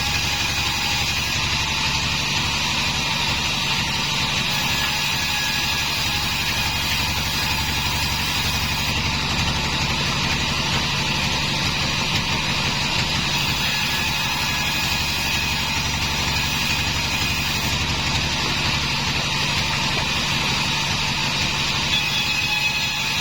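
Homemade bandsaw sawmill running steadily: an unbroken engine-like drone with a faint, steady high whine over it.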